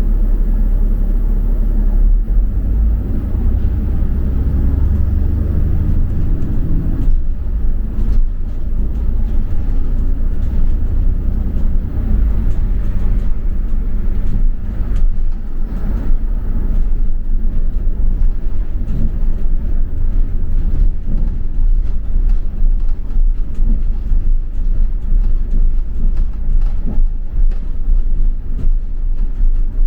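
Double-decker bus in motion, heard from inside: low engine and road rumble, with scattered rattles and knocks from the bus. A steady engine hum stops suddenly about seven seconds in.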